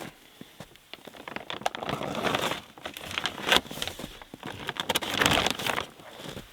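Footsteps crunching through snow, in several irregular crunching bursts with crackly clicks.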